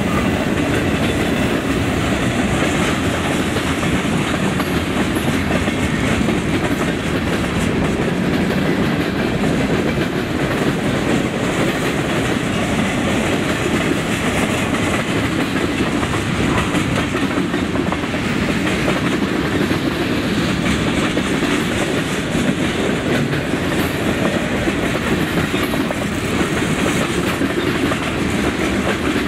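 A train rolling steadily past at close range: a continuous rumble of wheels on the rails that does not let up.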